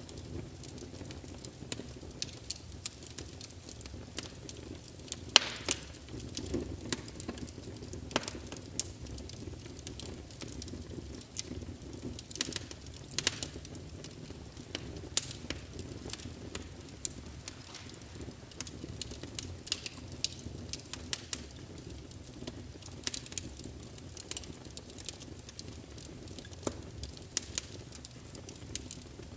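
Wood fire crackling in a fireplace: a steady low rumble of flames with frequent irregular pops and snaps, a few of them sharper and louder.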